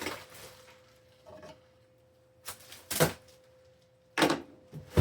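Packing tape and plastic wrap being pulled and ripped off a cardboard box: several short, sharp crackling rips and rustles, the loudest about three seconds in and just after four seconds.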